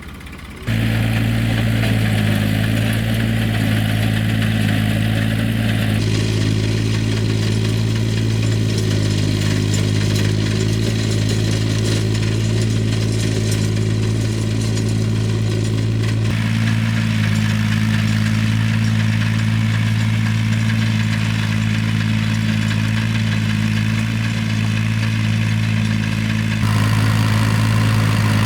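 An engine running steadily at idle, a low, even hum. The sound shifts abruptly a few times, about once every ten seconds.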